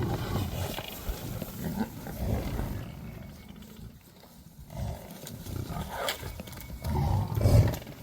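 Lions growling in repeated low, rough bursts, the loudest near the end.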